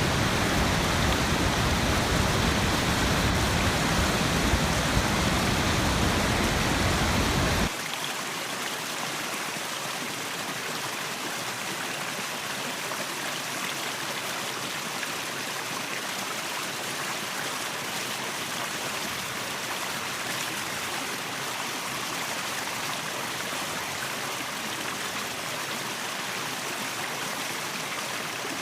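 Waterfall and rushing stream water, a steady noise. About eight seconds in it cuts suddenly to a quieter, lighter rush without the deep low rumble.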